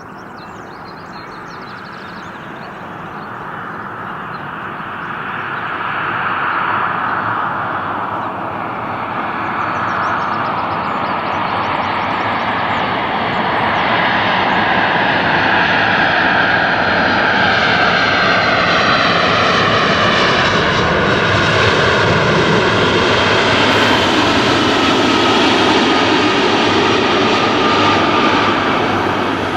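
Airliner's engines growing louder as it approaches, then staying loud while several engine tones slide down in pitch as it passes.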